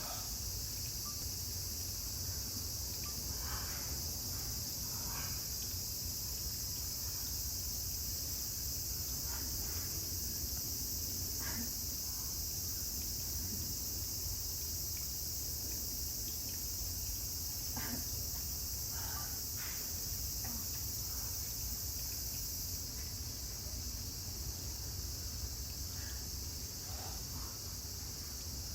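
Steady, high-pitched chorus of insects, with a low background rumble and a few faint, brief calls; the highest part of the chorus eases a little about two-thirds of the way through.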